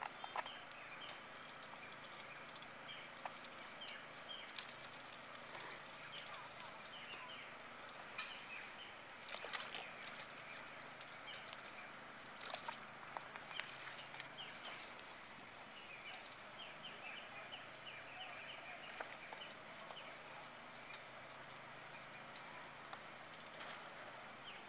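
Faint outdoor ambience: small birds chirping on and off, with a quick run of chirps about three-quarters of the way through and scattered sharp clicks over a low steady hiss.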